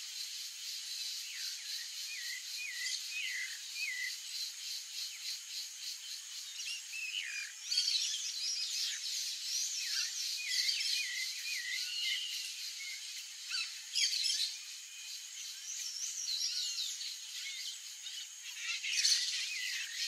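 Songbirds chirping: bursts of short, high calls that sweep up and down, busiest about a third of the way in and again near the end, over a steady, fast-pulsing high hiss.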